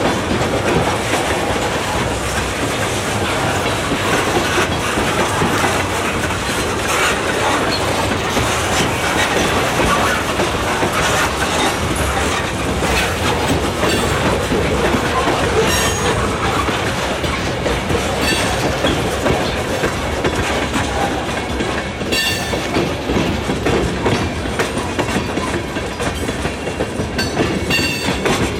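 Loaded freight cars, covered hoppers and tank cars, rolling steadily past on the rails with continuous wheel and car noise. Brief high-pitched wheel squeals come in a couple of times in the second half.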